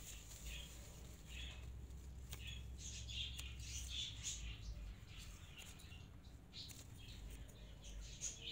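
Small birds chirping in the background, with short high calls scattered through, over a faint low rumble.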